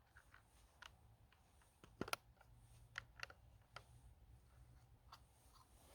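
Near silence broken by a handful of faint, sharp clicks at uneven intervals, the loudest a quick pair about two seconds in.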